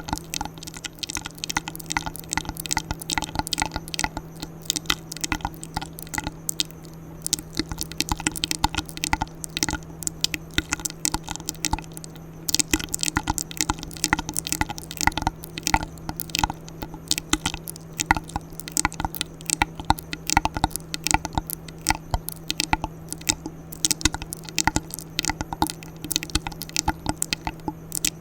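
ASMR mouth sounds close to the microphone: rapid, irregular wet clicks and smacks, over a steady low hum.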